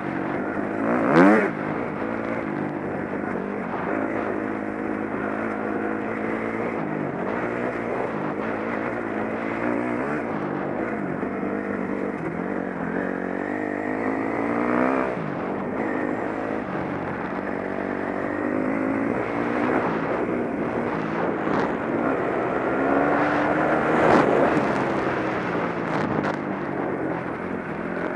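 Dirt bike engine running under way, its pitch rising and falling with the throttle, with sharp revs about a second in, again about halfway and again near the end.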